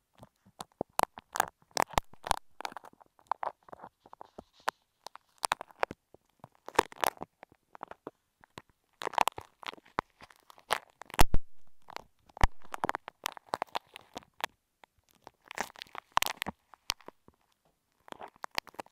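Beaded clay handled close against an earphone microphone: irregular sticky crackles and clicks, with an occasional louder muffled thump.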